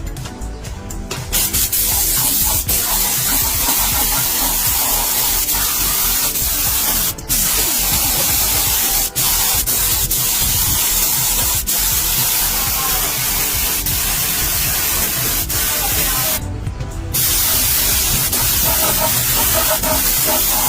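Steady hiss of compressed-air spraying, broken off briefly about 7 seconds in and for about half a second near 17 seconds in, over background music.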